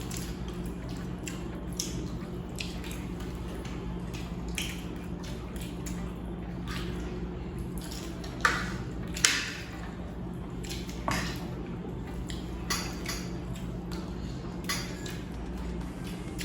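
Metal spoons clinking and scraping on plates during a biryani meal, with scattered short clicks and two louder clinks about halfway through, over a steady low hum.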